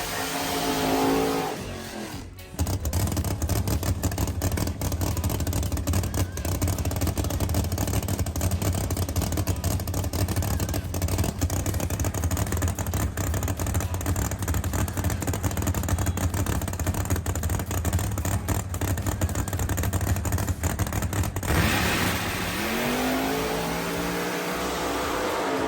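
Drag-racing car engine: a rev rising in pitch over the first two seconds, then about twenty seconds of loud, rapid, steady engine pulses, then revs gliding down and back up near the end.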